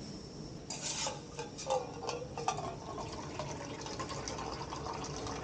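Water being poured from a pump container into a cup. It starts about a second in with splashes and gurgles, then settles into a steady filling stream.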